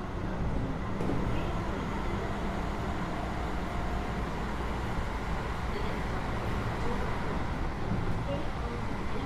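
Keio 8000 series electric train running, heard inside the car above its GTO-VVVF main controller: a steady low rumble of motors and wheels on the rail, with faint steady tones above it.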